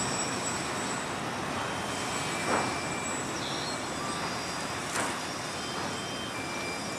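Freight train of autorack cars rolling on steel rails: a steady rumble with thin high wheel squeals that come and go, and a clack twice.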